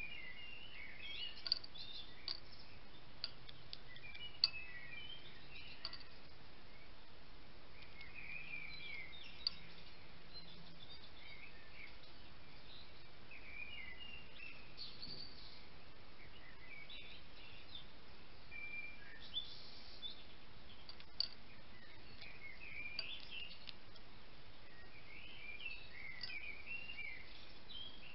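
Bird song: runs of short, chirpy twittering phrases coming and going, over a steady hiss, with a handful of sharp clicks scattered through.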